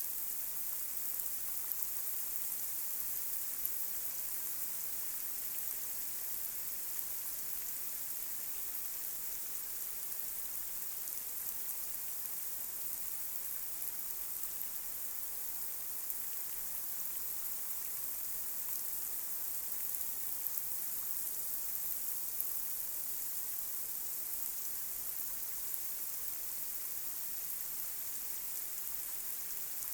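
Light rain falling on a street: a steady high hiss with a few louder drop ticks scattered through it.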